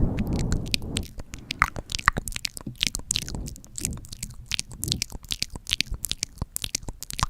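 Close-up sticky ASMR sounds recorded right at the microphone: a muffled low rubbing for about the first second, then a dense, irregular run of sticky clicks and crackles.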